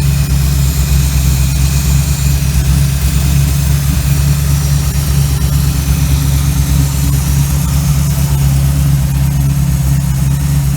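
Small-block Chevy 350 V8 idling steadily on its freshly rebuilt Holley 1850-2 four-barrel carburetor.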